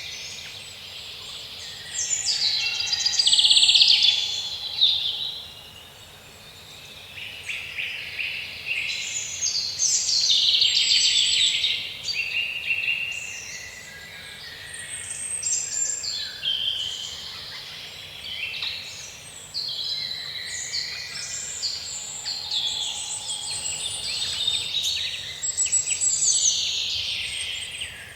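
Woodland songbird chorus: several birds singing at once in overlapping chirps and trills, swelling and easing in waves. A faint steady hiss sits underneath.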